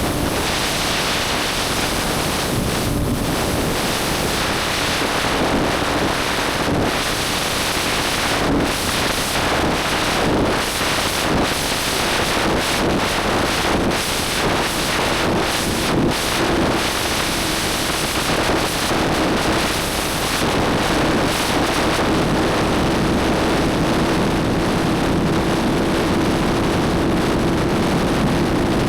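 Motorcycle riding at speed: heavy wind rush on the microphone over a steady engine note that firms up and climbs slightly in pitch over the last several seconds.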